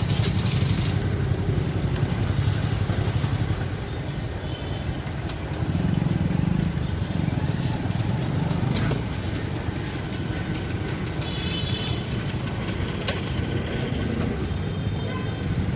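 Steady road-traffic noise: the low rumble of running motor-vehicle engines, swelling a little about six seconds in, with brief faint high tones later on.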